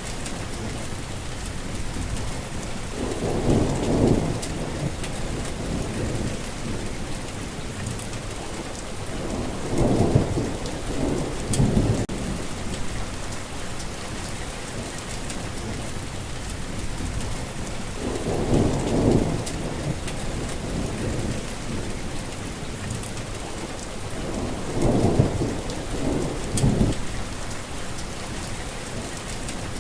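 Heavy rain falling steadily, with four low rolls of thunder, each lasting a couple of seconds, spread through.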